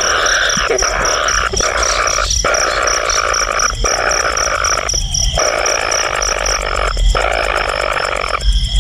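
A dense chorus of frogs calling, with an insect pulsing steadily and evenly high above it; the chorus breaks off for a moment several times.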